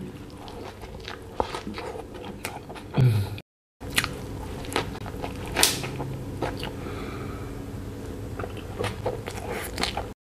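Close-miked mouth sounds of a person biting into and chewing a soft burger (bun, prawn patty, sauce and pineapple), with many small wet clicks and smacks.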